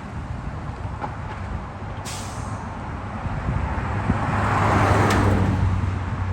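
A truck drives past, its engine and tyre noise swelling to a peak about five seconds in and then fading, with a steady low hum. A brief sharp hiss comes about two seconds in.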